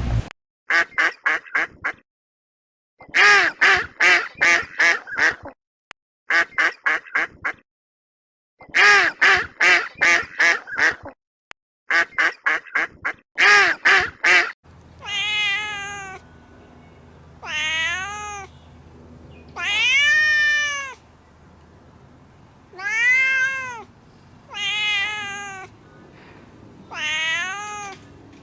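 For the first half, an animal gives bursts of rapid short calls, six or so to a burst, with short gaps between bursts. Then a cat meows about six times, each a drawn-out meow that rises and falls in pitch, a couple of seconds apart.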